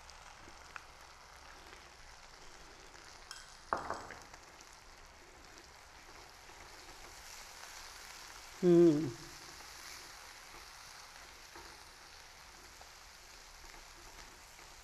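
Spice paste mixed into yogurt sizzling quietly in hot oil in a pan as it is stirred, a steady faint hiss. A brief vocal sound comes about nine seconds in.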